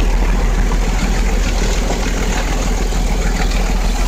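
Steady rumble and rattle of a moving Ooty toy train (Nilgiri Mountain Railway) passenger coach, heard from inside the carriage, with faint clicks over a deep, even running noise.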